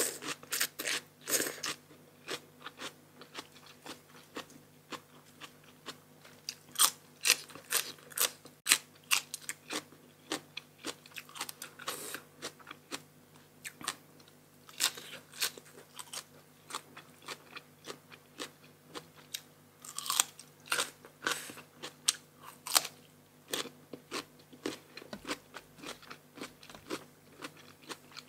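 A person eating close to the microphone: chewing with many sharp, crisp crunches of crunchy food, coming in irregular clusters.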